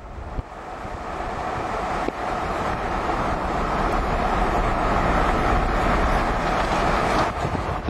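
Steady road and wind noise of a moving car, building up over the first few seconds.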